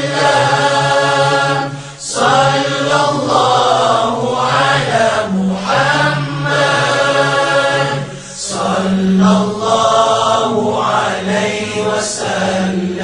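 Sung salawat, an Arabic devotional chant in praise of the Prophet Muhammad, with long drawn-out notes over a steady low hum.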